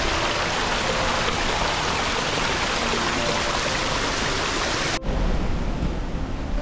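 Loud, steady rush of water with faint music underneath. About five seconds in it cuts off abruptly to a duller, lower rumble.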